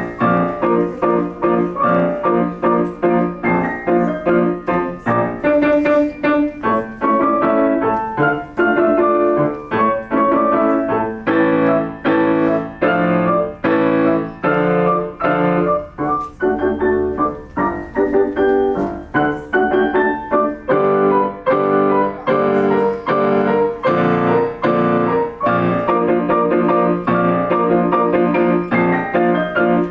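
Piano playing a solo piece: a continuous run of struck notes and chords, evenly loud throughout.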